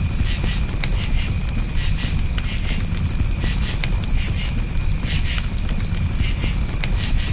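Campfire crackling, with scattered sharp pops over a steady low rumble. Crickets chirp in short high-pitched pulses, repeating several times a second.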